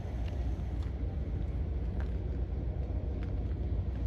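Steady low rumble of a CPKC coal train, with a few faint clicks.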